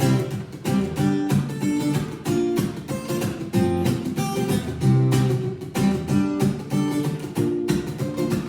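Acoustic guitar strummed in a rhythmic chord pattern, an instrumental break with no singing.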